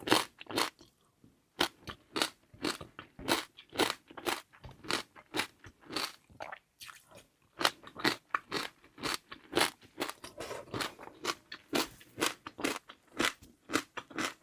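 Close-up crunching and chewing of jelly pearls that are crisp inside, with a water-chestnut centre. Many sharp, irregular crunches, about three or four a second.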